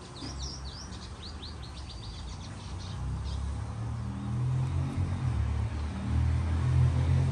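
A small bird chirping in a quick run of short high notes over the first couple of seconds, then a low rumble growing louder from about halfway through.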